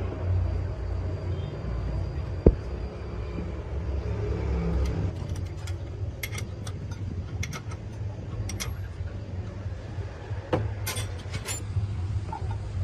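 A steady low mechanical rumble, with a sharp knock about two and a half seconds in and scattered sharp clicks and ticks through the second half, among them another knock.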